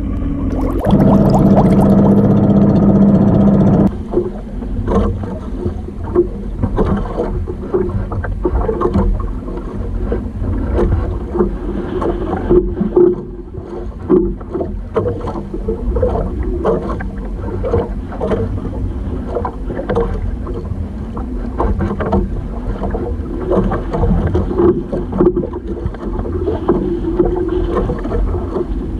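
Outrigger fishing boat's engine running steadily, with wind and splashing water over it. Near the start a loud buzzing tone lasts about three seconds.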